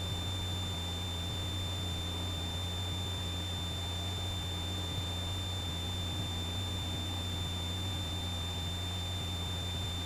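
Cessna 172 engine and propeller droning steadily at reduced power in slow flight, with a thin steady high whine over the low drone.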